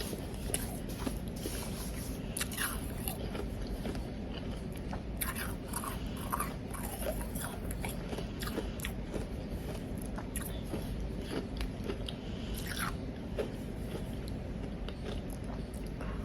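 Powdery ice being bitten and chewed, with many small, irregular crunches and crackles throughout.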